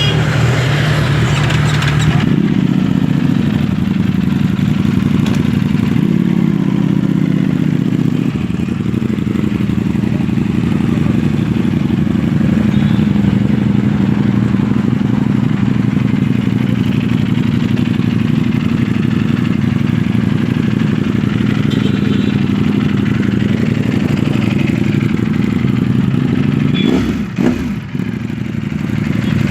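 Sport motorcycle engine running steadily through its exhaust, its note shifting slightly a couple of seconds in, with a brief dip and break near the end.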